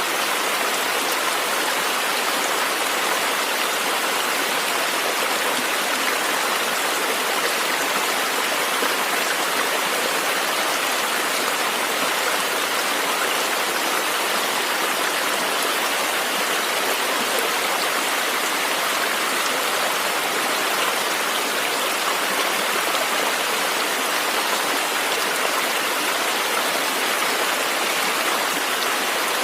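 River water flowing and rushing over rocks, a steady unbroken sound.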